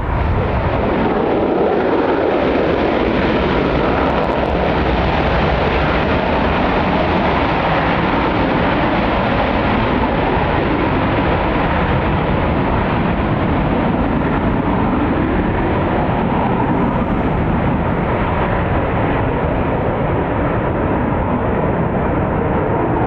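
Military jet aircraft engine noise: a loud, steady, dense rumble that holds level throughout and cuts off suddenly at the end.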